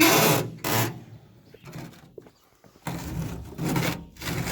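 A metal glove box door in an old truck cab being shut: two short loud bangs about 0.7 s apart at the start, followed by quieter rattling and handling noise about three seconds in.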